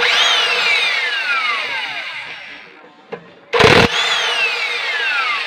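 A power tool triggered in short bursts, its motor whine falling steadily as it spins down after release, twice. Just before the second run there is a short, very loud rattling burst.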